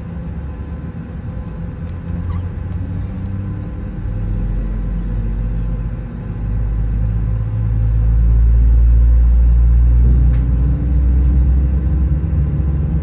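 Low, steady rumble of an Airbus A320 with CFM56 engines, heard inside the cabin. It swells about four seconds in and is loudest a few seconds later, with a sharp click about ten seconds in.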